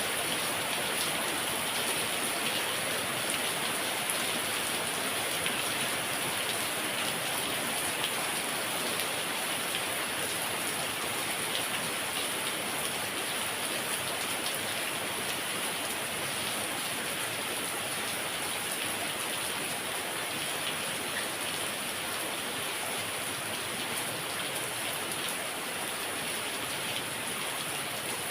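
Heavy rain falling steadily, a dense hiss of drops striking surfaces with fine individual drop ticks throughout.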